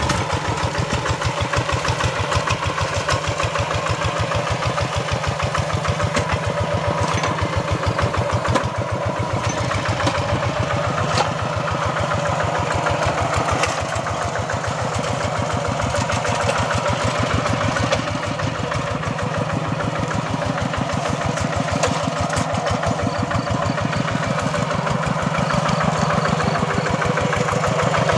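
Hand tractor's engine running steadily while ploughing a paddy, with a rapid, even firing beat.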